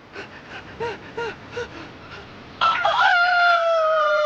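Cartoon chicken clucking in short quiet bursts, then letting out one loud, long rooster crow that falls slightly in pitch.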